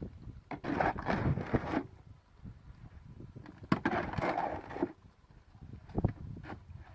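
Scoop shovel scraping and turning wet concrete mix in a wheelbarrow, in three separate bouts of scraping with short pauses between.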